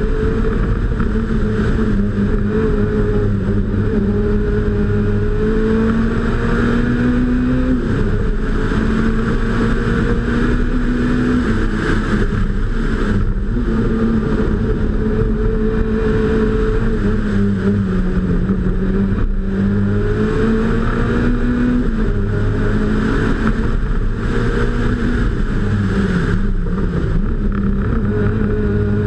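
Peugeot 106 Kit rally car engine driven hard, its note climbing and falling again and again as it pulls through the revs and changes gear. It has a few brief sharp cuts where the throttle is lifted for corners.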